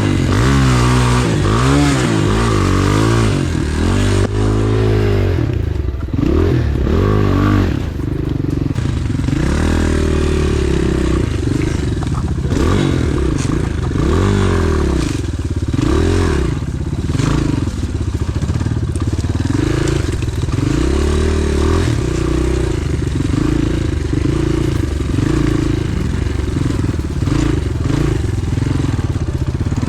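Enduro pit bike engine revving up and down again and again as it is ridden off-road, with rattling and scraping from the bike; the revs hold steadier in the last several seconds.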